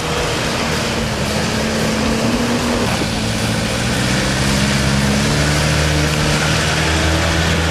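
Off-road 4x4 engine running under load, its pitch shifting and rising a little from about halfway through, over a steady rushing noise.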